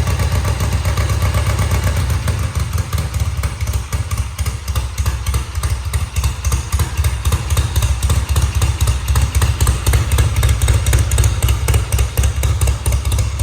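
1970 Triumph TR6C Trophy's 650cc parallel-twin engine idling steadily on choke just after a cold start, with an even, low, pulsing exhaust beat.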